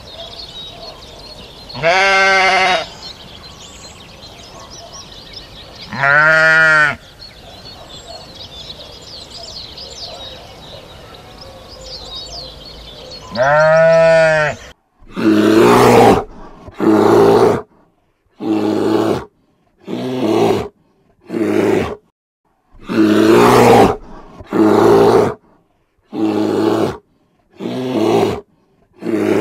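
A sheep bleating three times, several seconds apart, with birds chirping faintly behind. Then a brown bear growling in about ten short calls, each under a second, with silent gaps between them.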